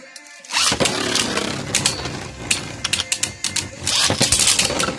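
Beyblade Burst tops spinning and clashing in a plastic stadium: a dense whirring clatter full of sharp clicks as they hit each other and the walls. It starts suddenly about half a second in.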